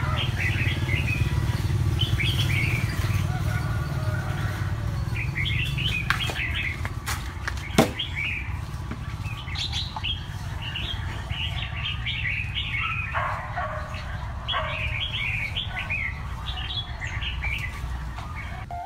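Small birds chirping in short, repeated bursts over a steady low rumble, with a sharp crack about eight seconds in and a few fainter clicks around it.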